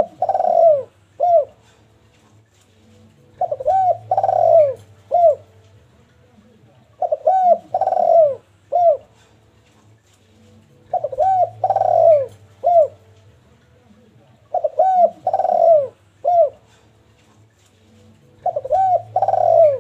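Derkuku (spotted dove) cooing, repeating the same phrase about every four seconds: two quick coos, a longer falling coo, then a short final coo. There are about six phrases in all, and a faint steady low hum runs underneath.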